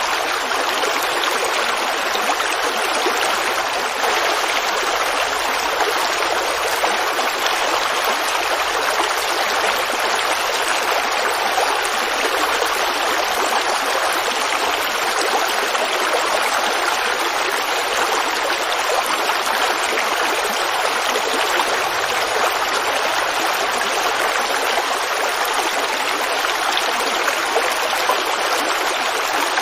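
A creek babbling and flowing steadily over rocks, an even rush of water without pauses.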